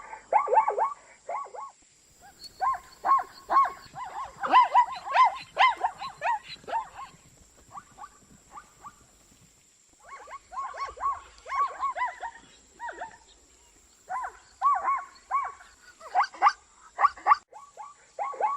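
Zebra calling: rapid runs of short, yelping bark-like calls, several a second, in bouts separated by short pauses.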